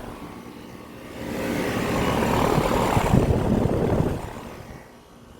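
Outdoor central air conditioner condenser running, its fan whooshing. The noise swells about a second in, holds, then fades away after about four seconds.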